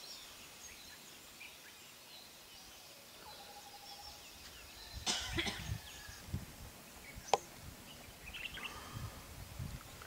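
Outdoor ambience with faint, scattered short bird chirps. A burst of low bumps and rustling comes about five seconds in, and a single sharp click a little after seven seconds.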